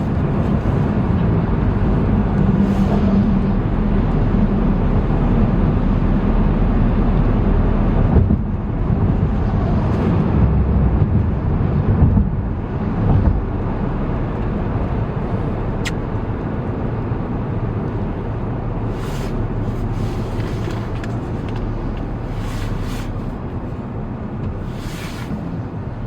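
A car driving, with steady engine and road noise as a low, continuous rumble that eases off a little over the second half.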